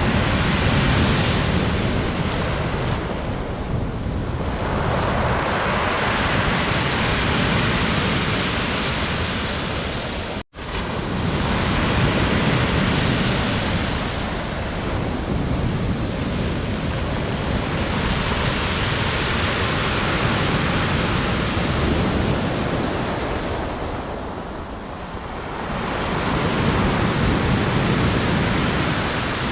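Storm surf of the Black Sea: large waves breaking and washing up the shore in repeated swells, with wind on the microphone. The sound cuts out for an instant about ten seconds in.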